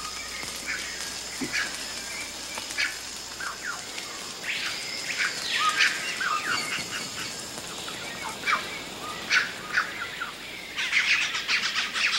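Amazon rainforest birds calling: scattered chirps and whistles, one long arching whistle about halfway through, and a quick flurry of calls near the end.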